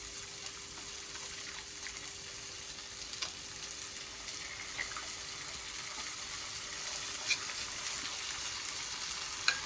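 A pan of baked beans and saltfish sizzling on the stove: a steady frying hiss with a few sharp pops spread through it, over a faint steady hum.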